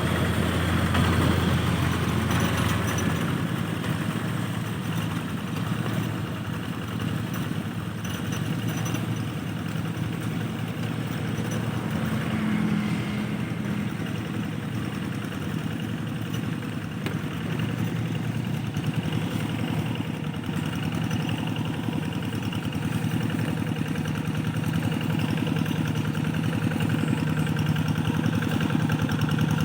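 Rice-field tractor engine running steadily, a continuous low mechanical drone.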